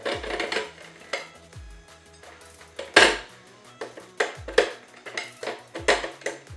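Steel tire irons clinking and knocking against a motorcycle wheel rim as the tire bead is levered on, with several sharp clanks, the loudest about three seconds in. Electronic background music with a steady beat plays underneath.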